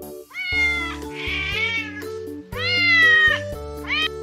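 Domestic cat meowing four times, each meow a short call that rises and falls in pitch, over background music.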